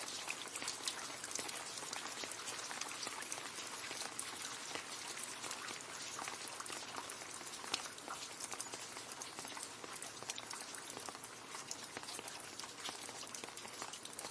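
Rain falling steadily into a puddle: a dense patter of many small splashes over a constant hiss of rainfall.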